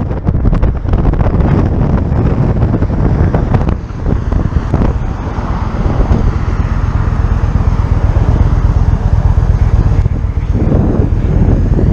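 Motorcycle running on the road at speed, with heavy wind buffeting the microphone. The level dips briefly about four seconds in.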